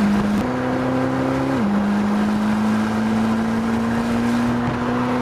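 Twin-turbo LT7 V8 of a 2026 Chevrolet Corvette ZR1X running at speed. Its steady engine note climbs slowly and jumps in pitch a few times, as with gear changes.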